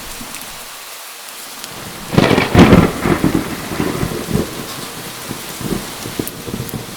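Steady rain falling, with a clap of thunder breaking out about two seconds in and rolling on as a rumble that slowly fades.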